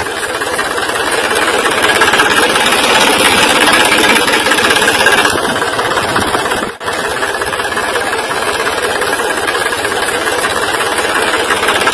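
Engine running steadily and loudly, with a brief dip in level about seven seconds in.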